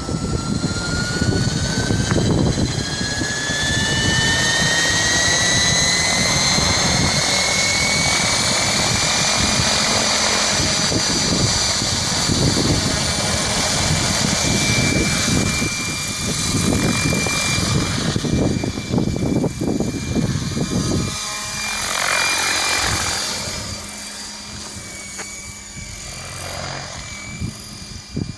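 Electric RC helicopter spooling up: the motor and rotor whine rises steadily in pitch for about nine seconds, then holds at one steady pitch at head speed. A gusty low buffeting rumble runs under it and drops away about 21 seconds in, leaving the steady whine quieter.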